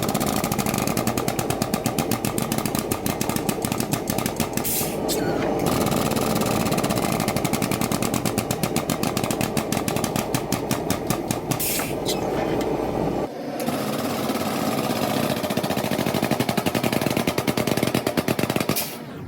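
Power hammer pounding a copper and steel damascus billet in rapid, regular blows, many a second. A low hum under the blows stops about two-thirds of the way in, and the hammering carries on.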